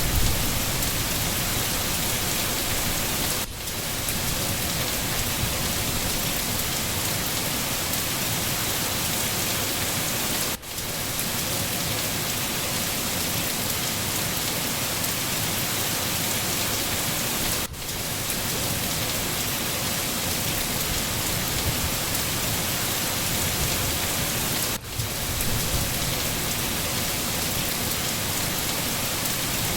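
Steady heavy rain, an even hiss of drops. It dips briefly four times, about every seven seconds, and a low rumble of distant thunder comes in near the end.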